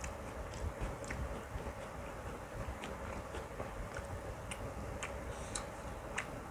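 Person chewing mouthfuls of biryani and mutton curry with the mouth open, making irregular wet clicks and smacks over a steady low background hum.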